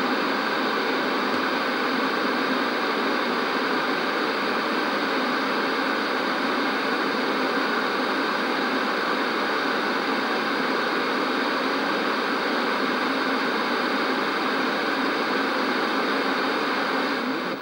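Old analog TV static: a steady hiss of snow noise from an untuned television, even in level throughout.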